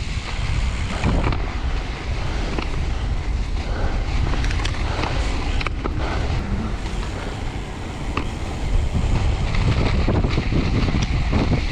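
Wind buffeting the microphone of a road bike riding fast through snow, with a steady rush of tyres cutting through snow and slush and a few scattered clicks.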